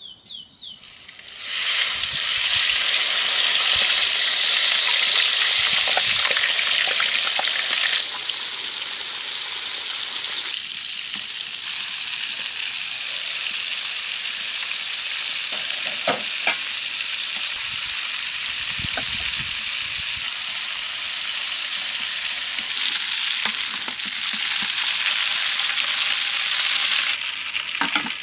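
Steady sizzling hiss of food frying, in a few segments that change abruptly, with a few sharp clicks.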